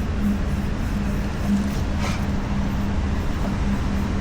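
Steady low mechanical hum with one constant tone running underneath.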